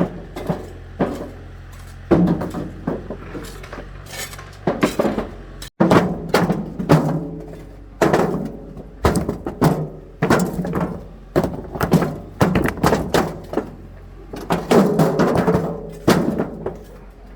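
Stones being tossed one after another into a metal tractor trailer: a long run of irregular knocks and clattering strikes, each ringing briefly, over a low steady hum.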